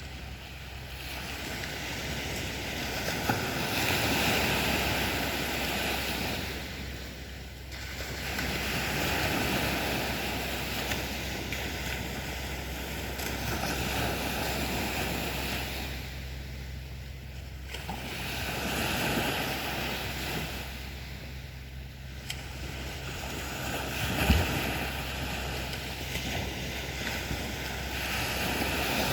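Black Sea waves breaking and washing up the beach, swelling and fading about every five seconds. There is a short knock a few seconds before the end.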